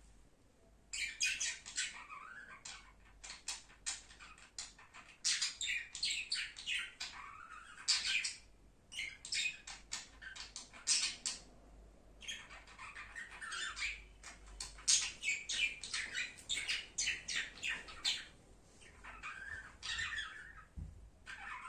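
Pet budgerigars chirping and chattering in quick runs of short, high calls, in bursts with brief pauses between.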